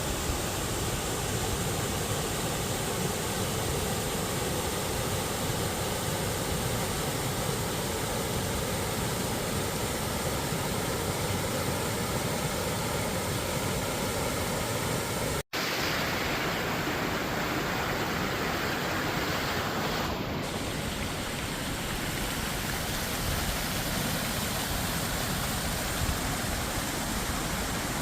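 Steady rushing of a waterfall, an even wash of falling water, cutting out for an instant about halfway through.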